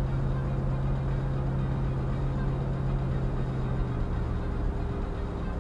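Engine and road noise inside a vehicle driving at about 45 mph: a steady low engine drone over tyre noise, with the drone's low tone dropping away about four seconds in.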